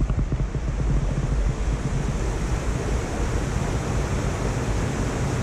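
Waterfall's steady rush of falling water, with a deep rumble.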